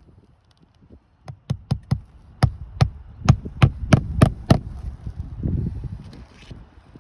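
A hammer driving roofing nails through a new asphalt shingle: a run of about a dozen quick, sharp strikes, roughly three a second, growing louder as the nails are set. A softer shuffling follows near the end.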